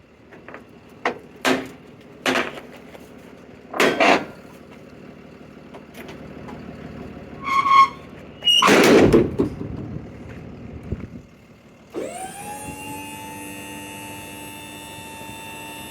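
Metal knocks and clanks, a short beeping and a loud rattling clatter as a box truck's aluminum lift gate is worked. About twelve seconds in, the lift gate's electric hydraulic pump motor starts, rising briefly in pitch and then running with a steady whine.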